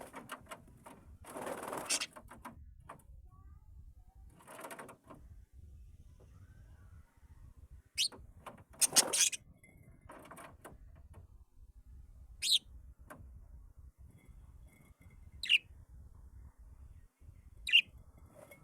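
Pet birds giving short, sharp chirps, four of them in the second half, each a quick fall in pitch. Several bursts of rustling or scuffling come between them, the loudest about halfway through.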